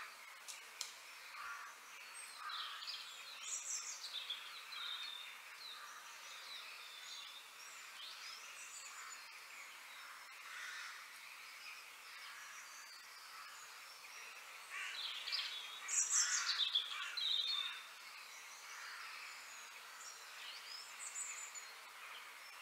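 Birds chirping and calling, with short repeated chirps throughout that grow busiest and loudest about two-thirds of the way through, over a faint steady outdoor hiss.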